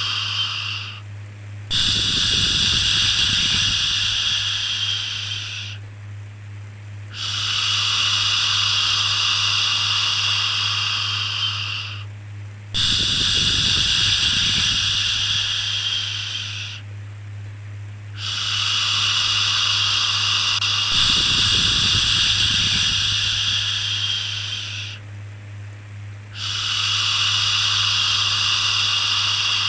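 Long, repeated 'shhh' shushing sounds for soothing a baby, each held for about four to seven seconds with a short break for breath between them, over a steady low hum.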